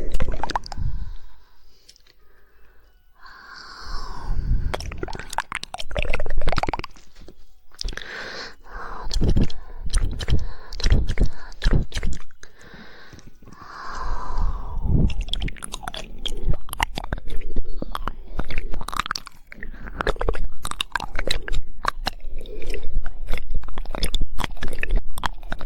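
Close-miked ASMR mouth sounds: tongue clicks and wet mouth noises, in fast 'woodpecker' tongue-clicking runs. The clicks come sparsely with wet, breathy swells at first, then turn into a dense rapid patter about midway.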